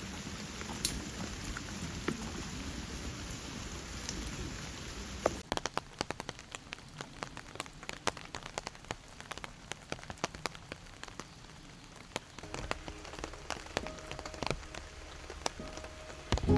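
Rain falling steadily; about five seconds in the sound changes abruptly to a quieter scatter of separate raindrops ticking and dripping close by.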